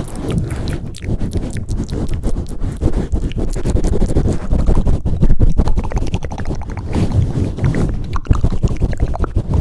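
Close-miked ASMR mic pumping and swirling: hands press, cup and rub over the microphone, giving a loud, muffled, bass-heavy rumble with many small crackles.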